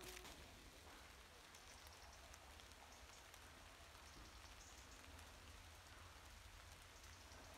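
Near silence: faint, steady outdoor ambience, an even hiss over a low rumble, with no distinct events.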